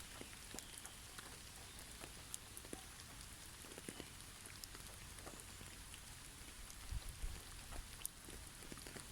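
Snowy forest ambience: scattered soft ticks and pattering of falling snow on branches over a steady hiss, with a brief low rumble about seven seconds in.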